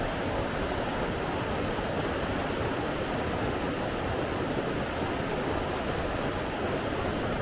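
Steady rushing water, an even, unbroken roar of flowing water like a stream or waterfall.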